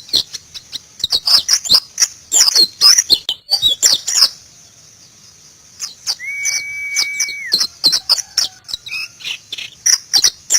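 White-eye (pleci, Zosterops) singing fast, high, chirping phrases in two bursts, with a short pause about four seconds in. About six seconds in, a steady whistled note is held for about a second and a half under the chirps.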